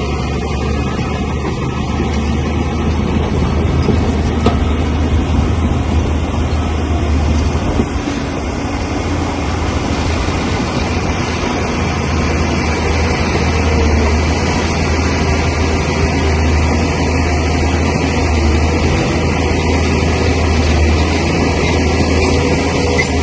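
Bulldozer's heavy diesel engine running steadily, with a brief dip in level about eight seconds in.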